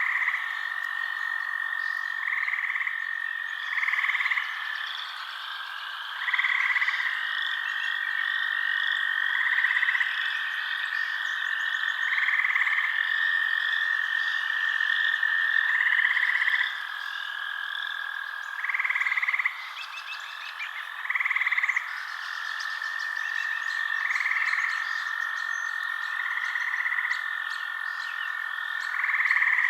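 Night chorus of frogs: a steady high trill, with louder calls every two to three seconds and many quick chirps layered above.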